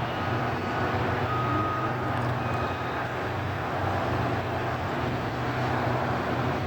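Front-loader garbage truck's diesel engine running steadily with a low hum.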